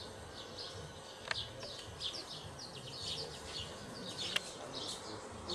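Faint outdoor chirping of birds, short high falling chirps several times a second, with two sharp clicks, one about a second in and one near the end.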